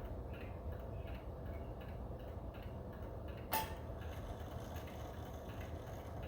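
Seth Thomas beehive mantel clock ticking softly, with one sharp click about halfway through.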